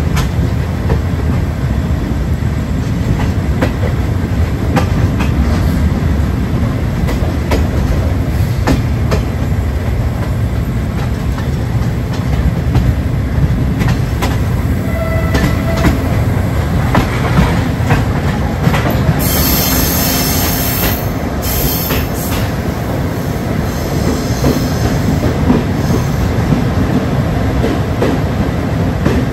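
Express train with ex-JR West sleeper carriages running at speed: a steady rumble of wheels and carriages with scattered clicks over the rail joints. A shrill wheel squeal comes in a little past the middle and again more faintly near the end.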